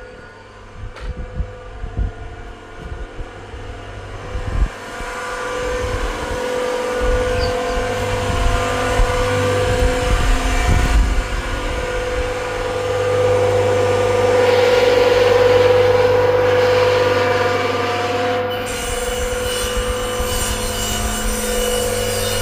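A powered saw running steadily while cutting slab wood, with a few knocks early on; the load builds to its loudest about two-thirds of the way through, then eases.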